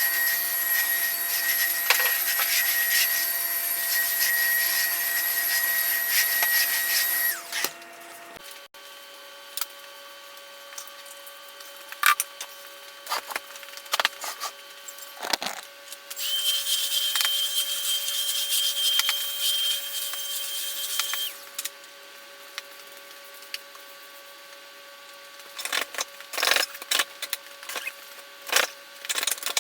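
Vacuum cleaner running with a steady motor whine, cutting off about seven seconds in; it runs again for about five seconds in the middle, and scattered knocks and clatter follow near the end.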